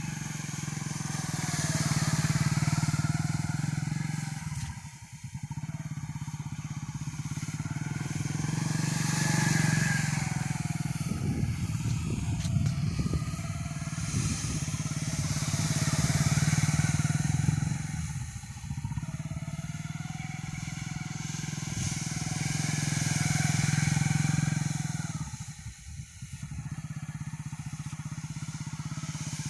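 Motorcycle engine running while it is used to thresh paddy, its revs rising and falling in slow repeated swells. A stretch of rapid irregular clicking comes midway.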